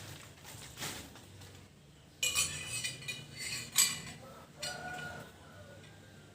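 Clinking, clattering and rustling of a new motorcycle exhaust being handled and unpacked from its packaging. The loudest clatter comes a little over two seconds in, with one sharp knock shortly after.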